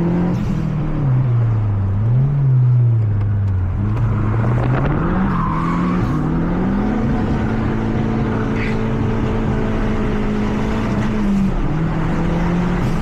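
Mazda 3 MPS's turbocharged 2.3-litre four-cylinder, heard from inside the cabin at speed on track. The engine pitch falls and rises several times, climbs to a long steady pull, then drops near the end.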